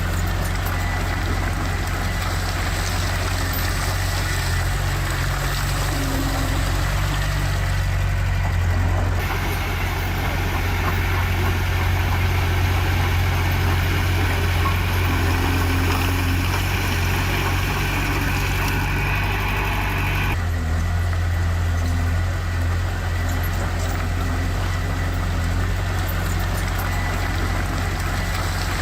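Heavy diesel earthmoving machinery running steadily with a deep engine hum. A harsher hiss joins about nine seconds in and drops away some eleven seconds later.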